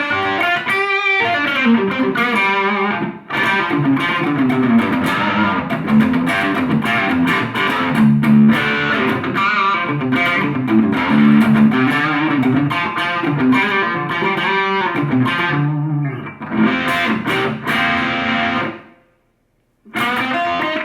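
Electric guitar played through an Abeid Custom Mid Gain overdrive pedal, set with its clipping switch off and gain at minimum, into a small amplifier heard through a room microphone. The riffs and chords have an overdriven tone that already carries a lot of gain at this lowest setting. The playing stops for about a second near the end, then starts again.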